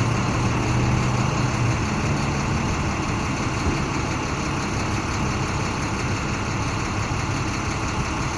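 Box truck engine running steadily at low revs as the truck slowly backs up, with a low hum that is strongest in the first couple of seconds.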